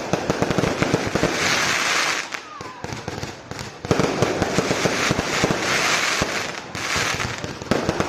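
Fireworks going off in a dense, rapid stream of crackling bangs, coming in waves: a lull a couple of seconds in, then a sharp loud surge at about four seconds.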